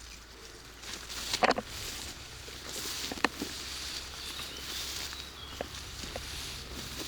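Footsteps through wet vegetation with rain pattering steadily, and two sharper knocks about one and a half and three seconds in.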